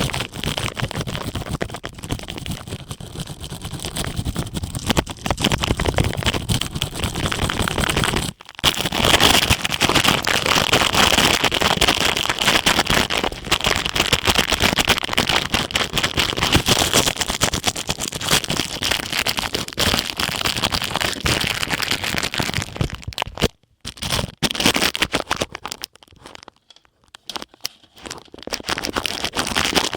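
Ear pick scraping and rustling on a plastic ear cap (the disposable kind used when dyeing hair) fitted over the microphone's ear, making a dense run of close crackling scratches. The scratching stops briefly about a third of the way in and thins out to short bursts near the end.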